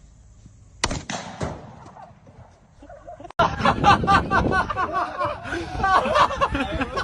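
A sharp knock just under a second in, then, from about three seconds in, a person's voice.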